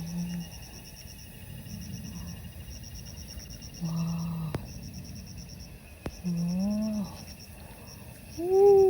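Short voiced calls from a person: a flat hum about four seconds in, a rising "ooh" a little later, and a louder rise-and-fall "wow" near the end. Under them runs steady, rhythmically pulsing insect chirping, with two sharp ticks between the calls.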